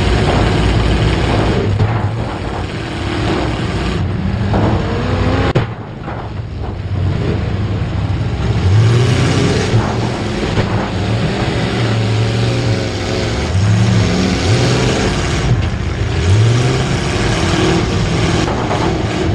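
Racing engines running hard, their pitch rising again and again as they accelerate, with more than one engine heard at once.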